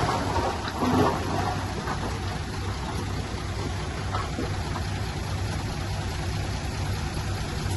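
Heavy earthmoving machine's engine running steadily, a low rumble under an even rushing noise.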